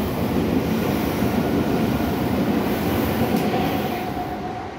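Meitetsu non-stop train running through the station at speed, a steady din of wheels on rail that starts to die away just before the end.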